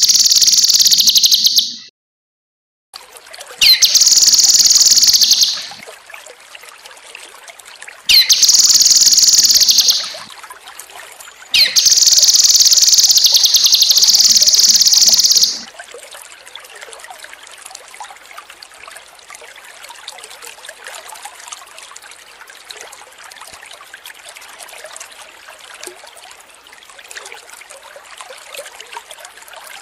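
Cucak kinoi singing four loud, high, rapid phrases in the first half, the last about four seconds long, over a steady trickle of running water. The singing stops about halfway through and only the water trickling goes on.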